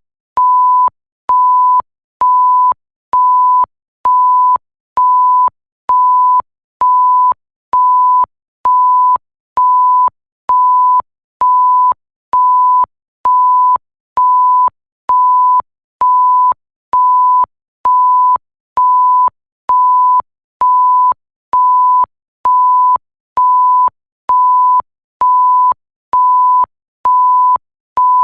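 Electronic censor-style bleep: a single pure tone near 1 kHz, repeating evenly a little faster than once a second. Each beep lasts about half a second, with a slight click as it switches on and off.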